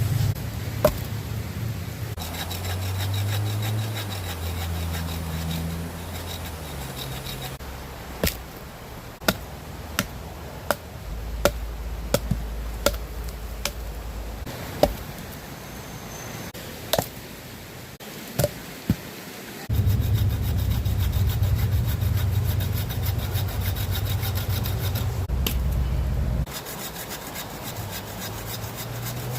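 Firewood being sawn by hand, with a scattering of sharp wooden knocks, in several short clips that change abruptly.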